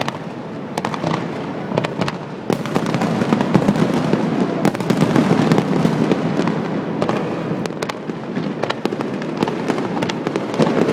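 Fireworks display going off: a continuous rumble of bursts with many sharp cracks and bangs overlapping.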